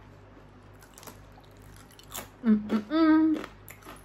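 Crunchy snack cracker being bitten and chewed with the mouth closed, faint crunching, then about two and a half seconds in a short hummed 'mmm' of enjoyment that steps up in pitch and is the loudest sound.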